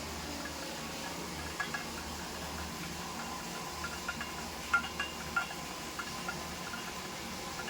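Kittens feeding on milk: scattered small clicking and smacking sounds, loudest about five seconds in, over a steady low hum.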